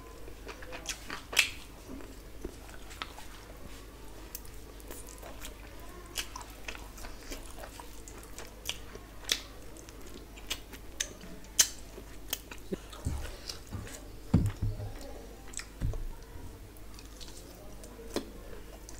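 Close-up eating sounds: a person chewing and biting mouthfuls of rice, curry and meat eaten by hand, with frequent short wet clicks and smacks. A few soft low thumps come about two thirds of the way through.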